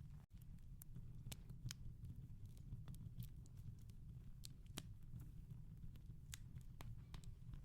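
Wood fire crackling softly in a fireplace: irregular small pops and snaps over a low steady rumble.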